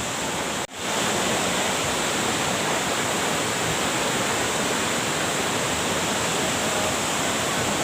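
Steady rush of the Bedegung waterfall's falling water. It drops out for an instant less than a second in.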